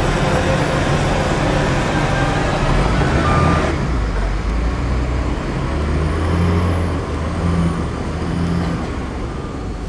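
Heavy diesel engine of an earthmoving machine running under load. A loud rushing noise over it cuts off abruptly a little under four seconds in, then the engine revs up in a few short surges.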